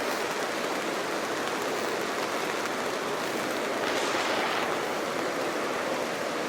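A creek running below, heard as a steady rush of water. The sound turns briefly brighter and hissier about four seconds in.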